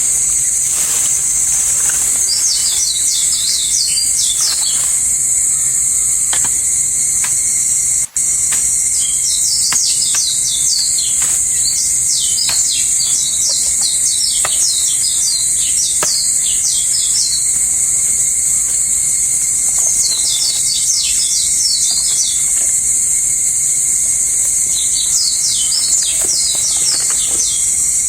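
Forest ambience: a steady, high-pitched insect drone, with a bird singing phrases of rapid, downward-sweeping notes several times over it. The sound drops out for an instant about eight seconds in.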